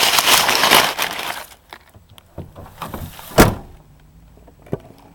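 Handling noise from a small camera being wedged into place: a loud rustling scrape for about a second and a half, scattered clicks, then one sharp knock about three and a half seconds in. A faint steady low hum follows.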